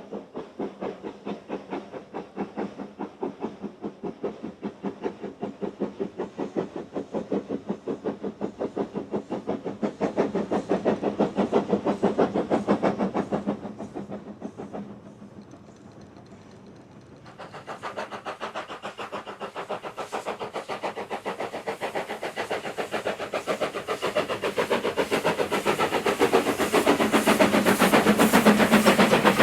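Steam locomotive working hard, its exhaust beating in an even rhythm. The beats fade away about halfway through, then return brighter and louder and build towards the end.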